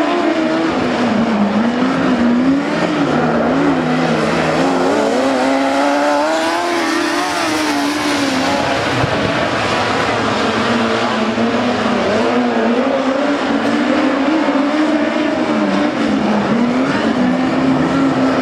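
Speedway midget race car engines at full race pace, their pitch rising and falling as the cars work around the track, with a rising surge about six seconds in.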